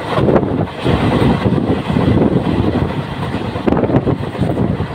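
Passenger train coach running at speed: continuous rumble and rattle of the wheels on the rails, with a few sharper clacks near the start and about three-quarters in, heard from the open side of the coach with wind on the microphone.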